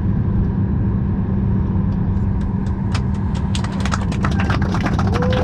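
Steady low hum inside a Boeing 737 MAX 8 airliner cabin. From about halfway through it is joined by a quick run of light clicks and rattles.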